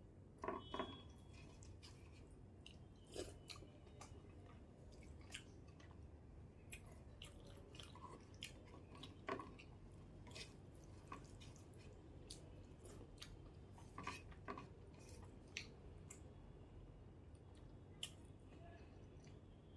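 Quiet, close-miked chewing and mouth sounds of a person eating rice with fish curry and stuffed pointed gourd: irregular soft wet clicks and smacks, a few louder ones spread through.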